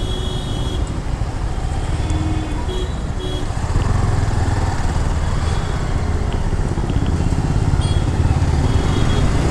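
Yamaha R15 V4's 155 cc single-cylinder engine running at crawling speed among the rumble of surrounding cars and motorbikes in dense traffic. The rumble gets louder about four seconds in, and a few short high beeps sound over it.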